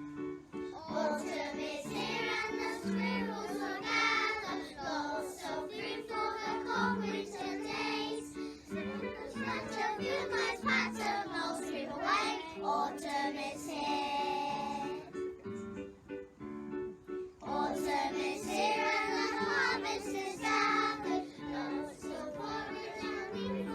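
A group of children singing a harvest song over a steady instrumental backing. The singing stops for a few seconds in the middle while the backing plays on alone, then the children come back in.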